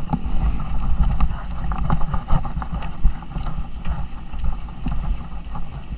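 Motocross bike engine running, heard through an onboard action camera with heavy wind buffeting and rattling on the microphone.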